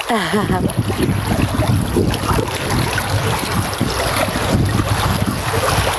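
Steady running water, with wind noise on the microphone.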